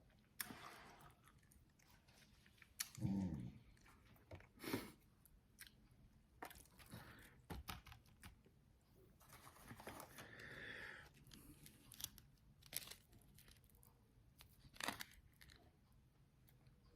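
Eating chicken wings fried extra well done: chewing and crunching, with scattered sharp clicks and a longer tearing sound about ten seconds in.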